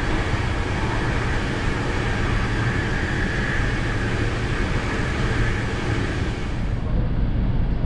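Steady running noise of a PKP EuroCity passenger train heard inside the carriage: a low rumble of wheels on rail with a hiss over it, which dulls about seven seconds in.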